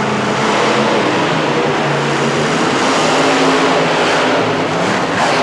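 Monster truck engines running loudly, their pitch shifting up and down a little.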